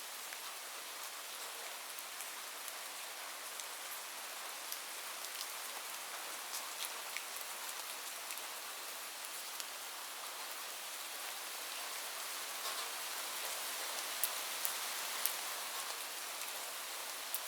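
Steady rain falling on a roof: an even hiss with scattered sharp drop ticks, growing slightly louder in the last few seconds.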